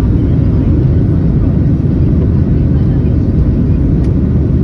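Steady low roar inside the cabin of a Boeing 737-700 from its CFM56-7B jet engines and the airflow around the fuselage.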